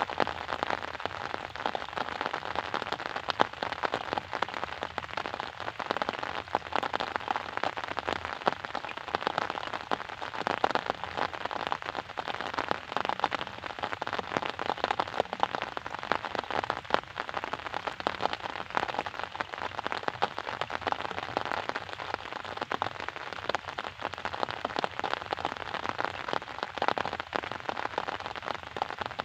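Steady rain falling, a dense even hiss of drops with many small sharp taps of individual raindrops striking a surface.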